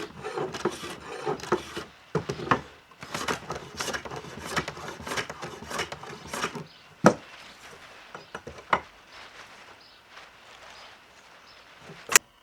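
Hand tools working wood on a stair-tread repair. A stretch of quick, irregular scraping and knocking strokes is followed by a few separate sharp knocks, the loudest about seven seconds in and just before the end.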